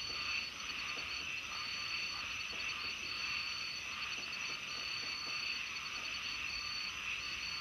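Night chorus of small paddy frogs (khiat) calling from a pond, a dense, even din. A high insect-like trill runs through it, breaking off and resuming every second or so.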